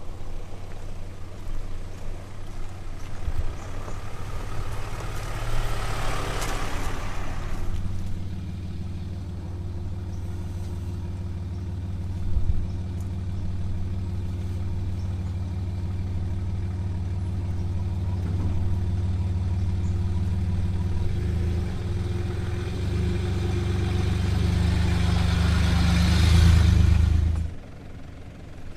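Toyota LandCruiser V8 turbo-diesel engine running at low speed while the 4x4 crawls along a rutted, rocky forest track, with two swells of rushing noise over it. The engine note grows louder towards the end, then cuts off suddenly about a second before the end.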